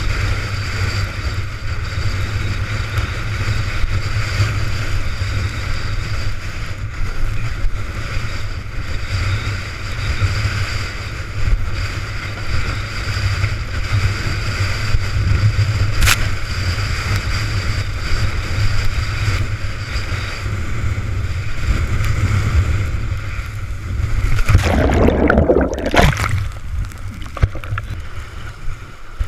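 Storm-force wind buffeting the microphone over water rushing and sloshing under a windsurf board sailing at speed, with a louder splash about twenty-five seconds in.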